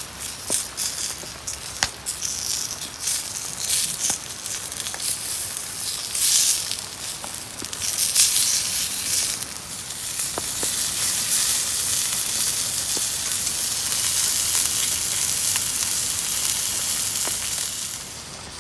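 Food sizzling and frying in a pan over a wood fire, with scattered sharp crackles, settling into a steady dense sizzle about halfway through.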